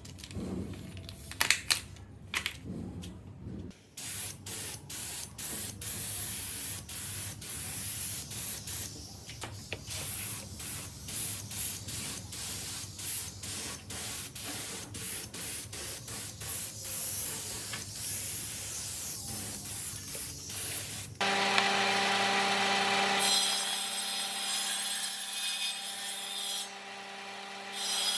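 Woodworking tool sounds: a few knocks, then a long run of short, evenly repeated rubbing strokes on the workpiece. About three-quarters of the way through it cuts to a small power tool's motor running steadily with a high hiss.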